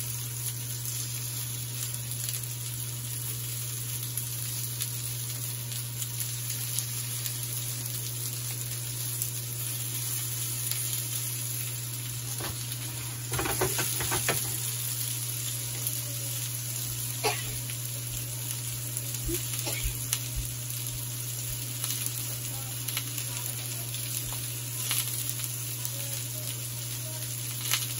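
Chicken kabab patties sizzling as they fry in oil in a pan: a steady hiss over a steady low hum, with scattered clicks and a louder cluster of clicks about halfway through.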